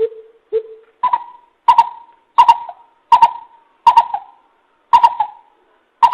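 Greater coucal calling: a series of deep hoots, two lower notes followed by about seven higher ones, spaced a little under a second apart.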